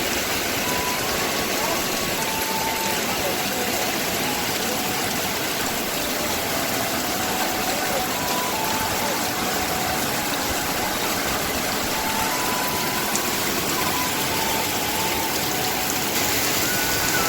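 Steady rush of heavy storm rain, with faint short high notes coming and going over it.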